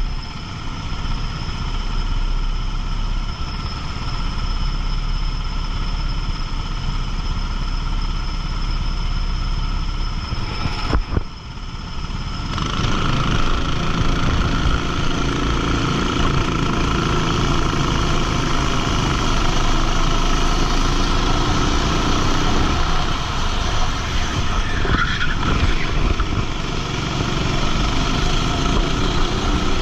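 Racing go-kart engine running hard, heard onboard with wind rush. The engine note drops briefly about a third of the way in, then comes back fuller and rises and falls through the rest.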